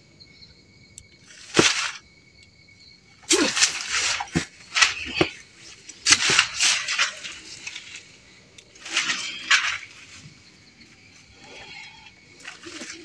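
A person's voice in a series of loud, breathy outbursts, some with a falling pitch, with short pauses between them.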